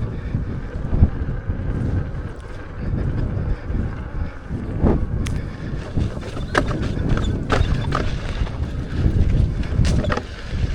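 Wind rumbling on the microphone of a rider on an off-road electric unicycle moving along a dirt trail, with scattered clicks and knocks from the bumpy ride.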